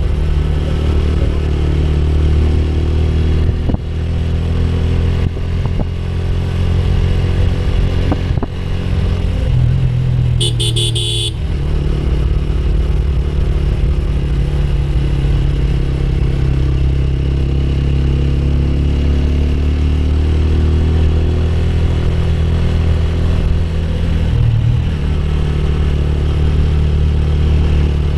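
Motorcycle engine running steadily while riding. A horn sounds once, for about a second, about ten seconds in.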